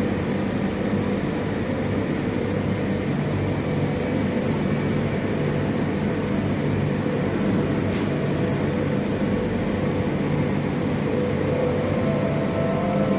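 Steady drone of heavy steel-mill machinery, a constant noisy rumble with a few held low hum tones and no breaks.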